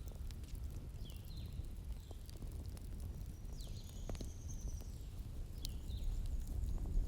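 Bonfire burning with a steady low rumble and scattered sharp crackles and pops, while small birds chirp now and then with short, high falling calls.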